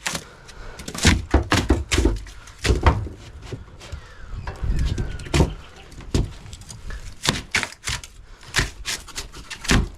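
Irregular knocks, thuds and crackling as a copper refrigerant pipe is pulled and worked free from a freezer's foam-insulated plastic cabinet.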